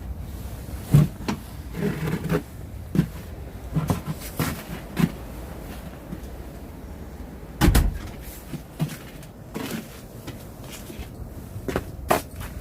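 Strong gusty wind rumbling on the microphone, with scattered knocks and clicks throughout and one heavy thump about eight seconds in.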